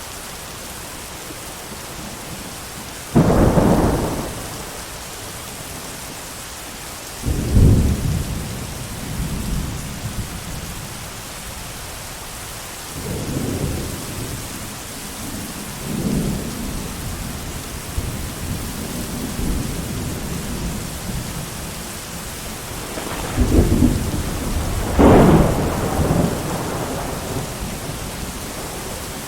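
Steady heavy rain with repeated thunder. A sudden sharp clap comes about three seconds in and another about seven seconds in, softer rolling rumbles follow, and two loud peals come close together near the end.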